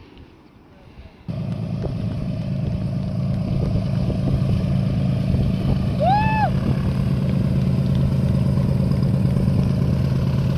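A light aircraft's piston engine running steadily, cutting in abruptly about a second in. A short high chirp sounds in the middle.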